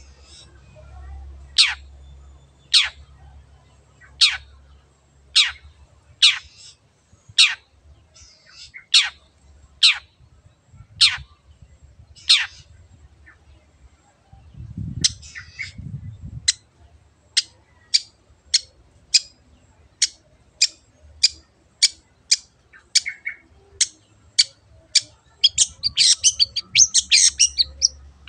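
Long-tailed shrike (cendet) calling: sharp, down-sweeping notes, one every second or so at first, coming faster from about halfway through. Bursts of harsh, rapid chatter are heard at the start and again near the end.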